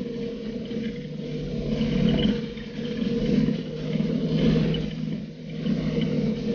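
Polaris RZR 570 side-by-side's single-cylinder engine running under way, its loudness rising and falling every second or two as the throttle is worked.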